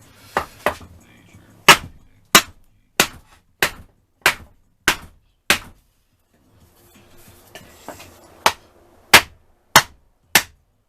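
Hammer blows knocking the seized cylinder barrel off a Yamaha FZR1000 engine: seven sharp strikes about two thirds of a second apart, a pause of about three seconds, then four more.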